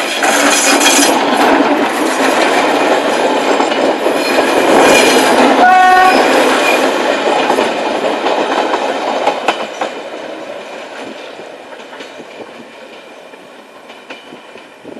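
A two-car train of Alsthom diesel railcars passes close by, loud and running. A short horn blast sounds about halfway through. The noise then fades steadily as the train draws away.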